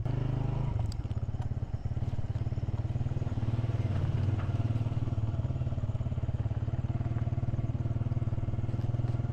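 Honda CG 125 motorcycle's single-cylinder four-stroke engine running steadily while riding.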